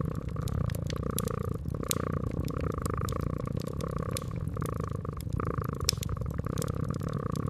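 Cat purring steadily, with the sharp pops and crackles of a fireplace fire scattered through it.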